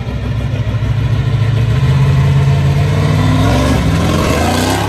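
Classic white 1960s Dodge two-door sedan's engine running loud as the car pulls past, building in level, then rising in pitch as it accelerates near the end.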